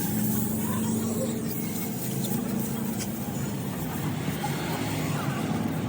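A steady low engine hum, with a faint click about three seconds in.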